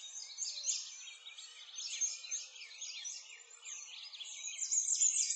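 Many small birds chirping at once, a dense run of quick overlapping high chirps and short whistled slides with no pause.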